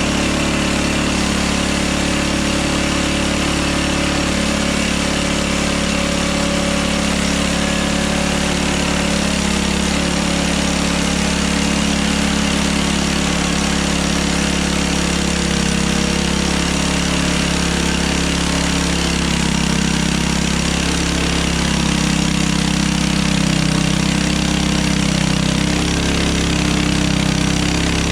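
Hudson Hunter portable bandsaw sawmill's engine running steadily, its pitch shifting slightly about a third of the way in.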